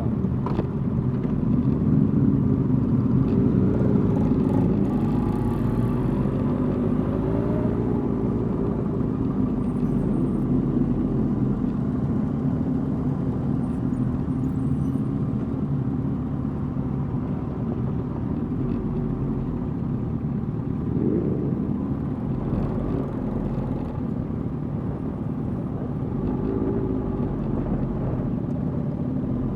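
Suzuki GSX-R 1000 inline-four motorcycle engine running at low, slowly varying revs while riding along, with a short rise in revs about two-thirds of the way through.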